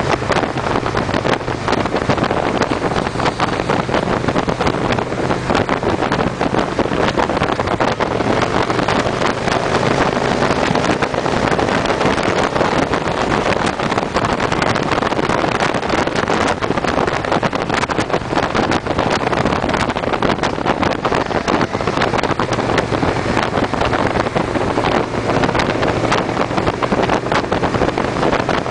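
Victory V-twin motorcycle engines running steadily at cruising speed, with heavy wind rushing over the microphone.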